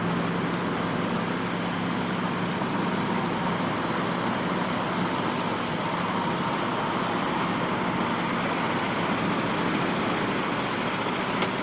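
Vehicle engine running steadily under an even rushing noise, with a low hum that fades in the first couple of seconds.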